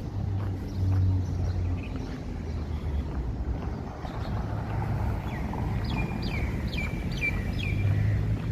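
A bird calling a quick run of about six sharp notes, each sliding down in pitch, about halfway through, over a steady low rumble.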